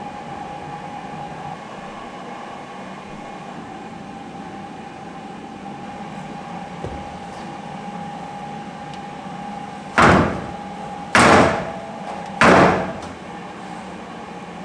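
A latched body panel on a Toyota MR2 (SW20) shut hard three times, a little over a second apart, each a loud slam that dies away quickly. A faint steady hum runs underneath.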